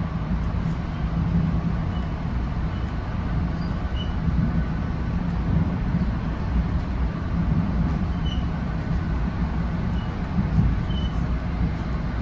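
Steady low rumble of wheels on rails inside a moving NJ Transit Comet commuter coach, with faint brief high squeaks every second or two.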